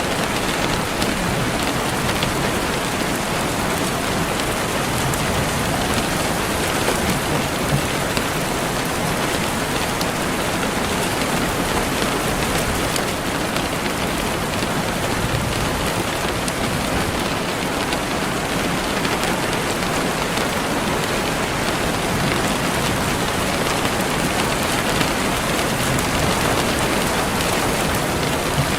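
Steady rain falling on a surface, a dense even hiss flecked with faint drop ticks.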